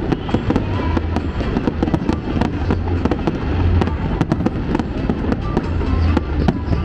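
Aerial fireworks bursting in rapid succession: a dense, continuous run of sharp cracks and bangs, with music from the pyromusical show playing underneath.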